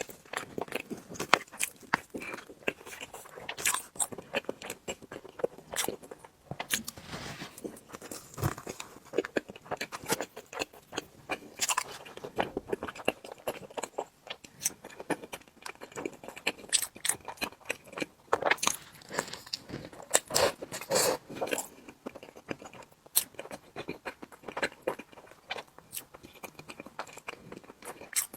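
Close-miked eating of tiramisu cake: soft biting, chewing and wet mouth smacks, many irregular short clicks throughout.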